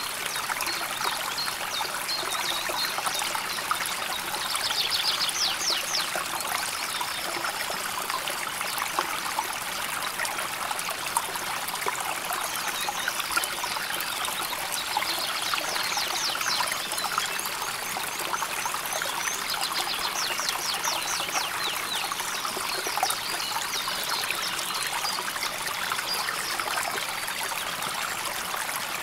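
River water flowing and trickling steadily over stones, a continuous babbling with fine splashy detail. Three times, a short, fast high trill sounds over the water.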